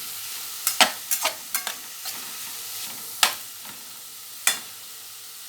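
Chopped vegetables sizzling in hot oil in a frying pan, while a utensil stirs them and strikes the pan in about five sharp clicks.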